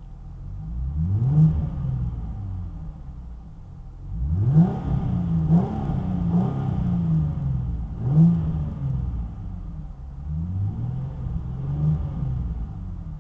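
2007 Mustang's 4.0-litre V6 through an original Flowmaster 40 series exhaust, heard from inside the cabin: revved several times, the pitch rising then falling back each time.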